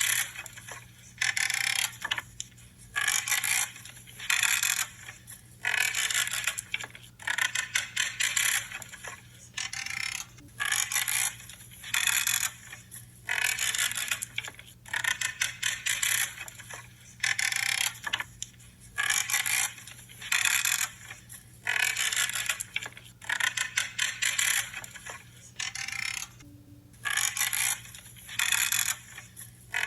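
Shears cutting through branches, one creaking, crunching snip after another at about one a second.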